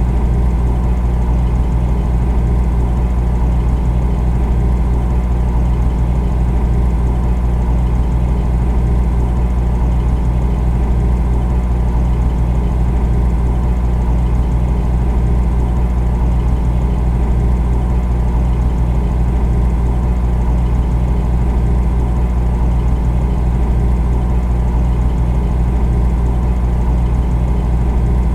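Refrigerator running with a steady low hum and a constant drone, unchanging throughout.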